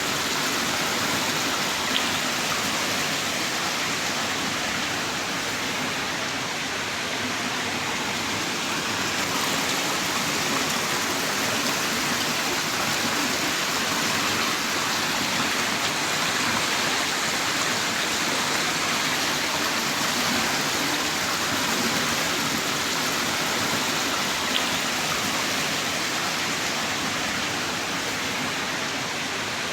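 Heavy rain downpour, a steady dense hiss of rainfall without let-up, with a couple of faint drop ticks.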